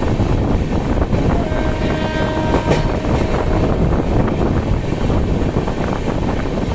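Moving train running with a loud, steady rail rumble, and a train horn sounding once for about two seconds starting about a second and a half in.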